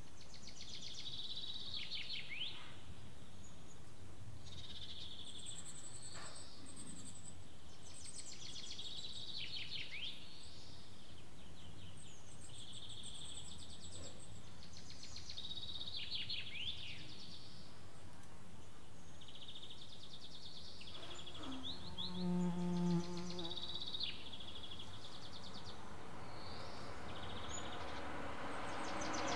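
A songbird singing the same short, high phrase over and over, every two to three seconds, each phrase ending in a quick falling trill. A brief, low, pitched call sounds once about three quarters of the way through, and near the end a growing rumble of an approaching vehicle begins.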